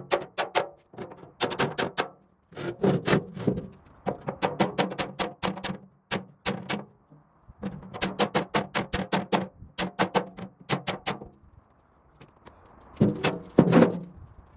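Sped-up workshop sounds: irregular clusters of rapid clicks and knocks from hand tools at work, with short gaps between the clusters.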